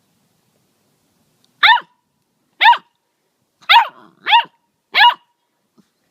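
Labrador retriever puppy giving five short, high-pitched barks, each falling in pitch, about a second apart, with the third and fourth coming closer together.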